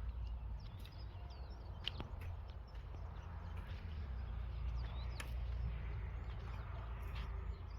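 Small birds chirping repeatedly over a steady low rumble outdoors, with a few sharp knocks cutting in, one near the middle and one near the end.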